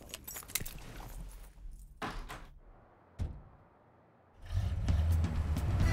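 Light clicks and scraping of a handset being handled, a single thump, then about four and a half seconds in a car engine's low rumble starts and grows louder.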